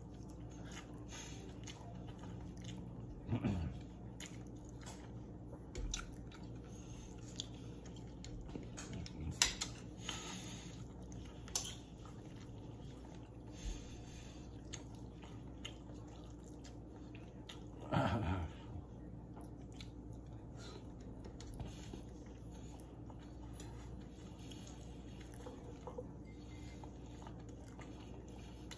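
People chewing and eating close to the microphone, with scattered light clicks. A couple of louder brief noises come about three seconds in and again near the middle.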